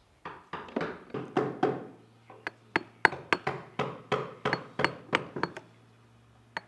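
Hand tool blows driving a carving chisel into wood, about three sharp strikes a second with a slight metallic ring; they stop about a second before the end.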